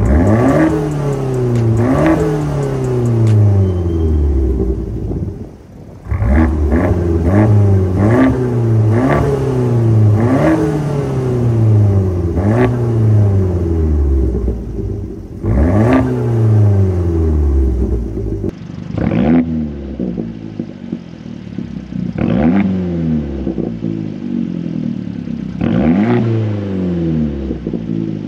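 Fiat 500 Abarth's turbocharged 1.4-litre four-cylinder revved repeatedly through its exhaust: quick throttle blips, each jumping up in pitch and falling back over about a second. The sound changes abruptly twice, as separate takes of the revving.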